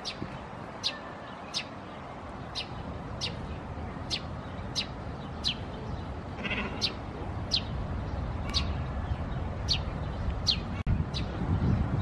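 A bird calling over and over: short, high calls that fall sharply in pitch, a little more than one a second, with one lower, broader call about halfway through.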